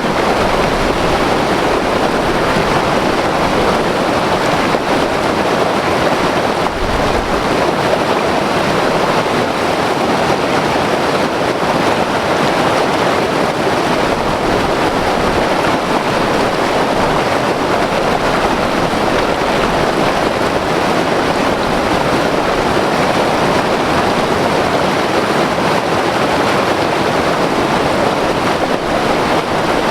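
White water river rushing over rapids, a steady dense roar of turbulent water. Some low rumble, likely wind on the microphone, flickers at the bottom.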